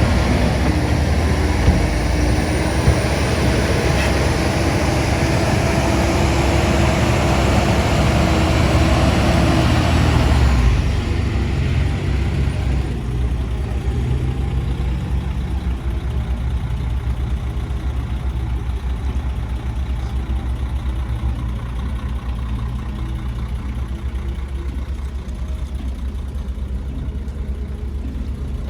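Heavy diesel engine of construction machinery running steadily. A louder, rougher stretch over the first ten seconds or so falls away to a lower, steadier engine sound.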